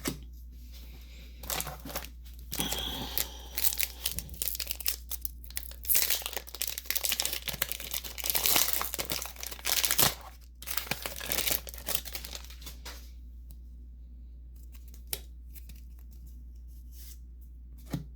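Foil Pokémon booster pack wrappers being torn open by hand and crinkled, a long run of crackling and rustling. It dies down about two-thirds of the way through, leaving a couple of single soft clicks.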